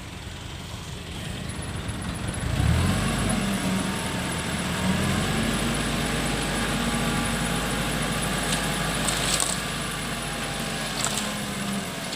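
Excavator's diesel engine revs up sharply about two and a half seconds in and runs on steadily under load, with a whine that rises and falls above it. A few sharp clicks come near the end.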